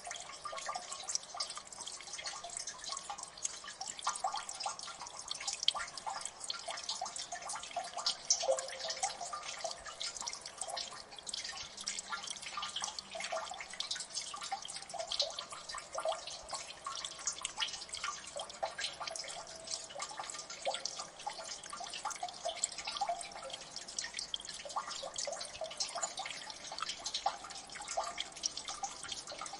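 Water dripping in a gully: many quick, irregular drops falling into water, each a short plink, over a faint steady trickle.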